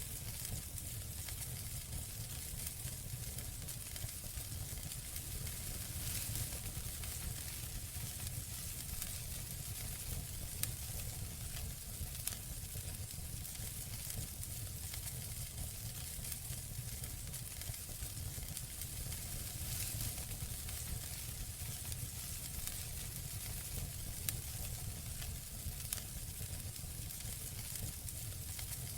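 Campfire burning: a steady hiss with scattered sharp crackles and pops over a low rumble.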